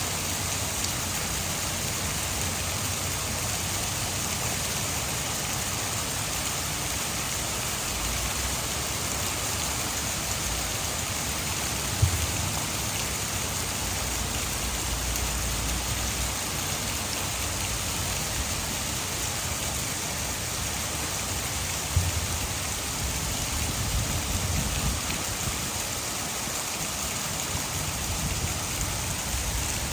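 Heavy rain falling steadily, mixed with the rush of water over a hydroelectric dam, with a low rumble that comes and goes. Two sharp knocks stand out, about twelve seconds in and again ten seconds later.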